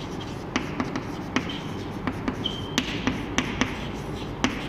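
Chalk writing on a blackboard: irregular quick taps and scrapes as the chalk strikes and drags across the board, with a short high squeak about two and a half seconds in.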